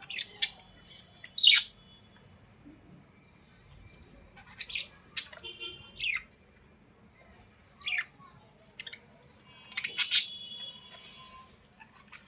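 A bird calling: a series of short, sharp chirps, each falling in pitch, spaced a second or two apart, with softer buzzy notes between them.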